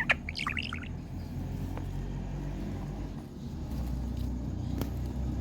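A few short chirping calls from an Indian green parrot in the first second, then a steady low rumble that grows louder a little past halfway.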